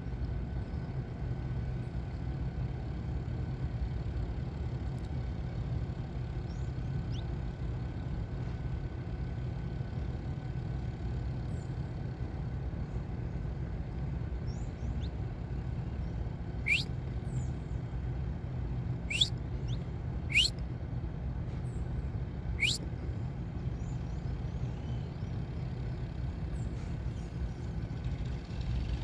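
Saffron finches calling: faint short chirps scattered throughout, and four loud, quick upward-sweeping calls in the second half. A steady low rumble runs underneath.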